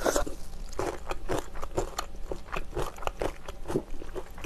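A person chewing and biting into sauce-coated fried chicken close to the microphone, an irregular run of crunches and mouth clicks.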